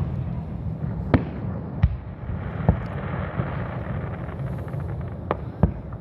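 Fireworks shells bursting close by: five sharp bangs, the last two in quick succession near the end, over a continuous rumble and hiss from the display.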